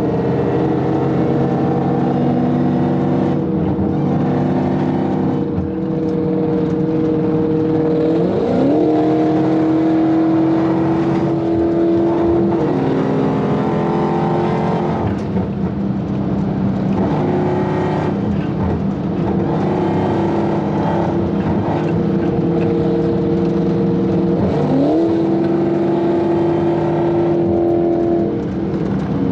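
Dodge Hellcat's supercharged V8 pulling steadily at highway speed. Twice, about 8 seconds in and again near 25 seconds, the pitch sweeps sharply up as the revs climb, then holds at a new steady note.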